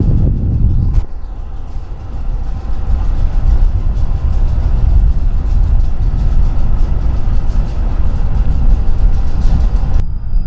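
Freight train rolling through a rail yard: a heavy, steady low rumble with faint rapid clicking from the wheels. Just before the end it changes abruptly to a different sound with a steady high whine.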